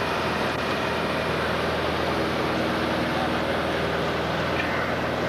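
Cessna 180's six-cylinder piston engine and propeller running steadily, a constant drone with no change in pitch or level.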